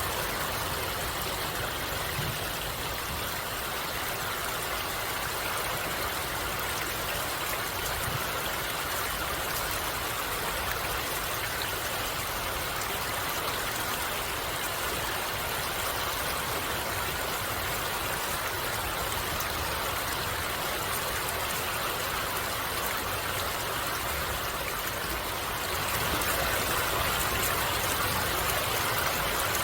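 Water of a stream flowing steadily, slightly louder in the last few seconds.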